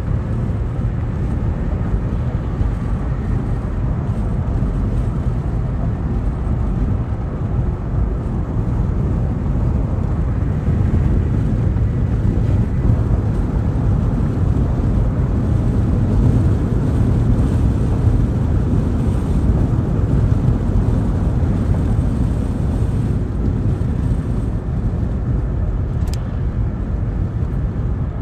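2024 Cadillac Escalade Sport Platinum driving: steady low road and tyre rumble with some wind noise. A single short click near the end.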